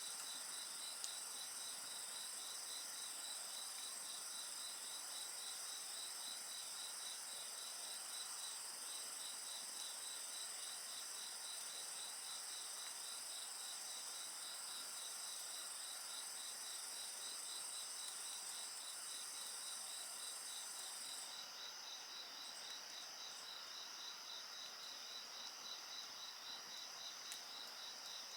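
Crickets and other insects calling together: a steady high trill over a regular pulsed chirping, with the high trill stopping suddenly about three-quarters of the way through. A couple of faint clicks.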